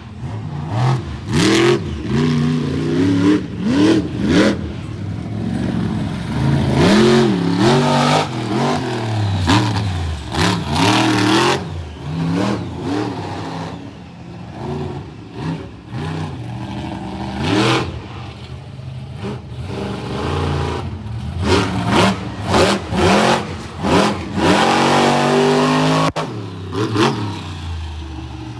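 Monster truck engines revving hard, their pitch climbing and falling again and again as the trucks throttle up and back off, with short sharp cracks scattered throughout.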